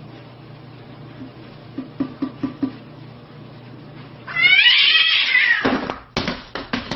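A cat gives one loud, drawn-out yowl about four seconds in, falling in pitch as it goes. Four short soft sounds come before it, and a few sharp clicks follow near the end.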